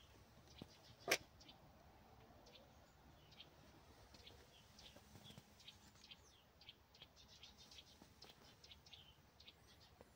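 Faint, scattered bird chirps over near-silent outdoor quiet, with one sharp click about a second in.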